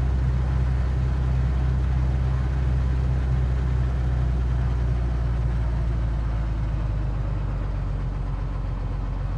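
Cessna 182Q's engine and propeller droning steadily as heard inside the cabin in flight, with the level easing slightly in the second half.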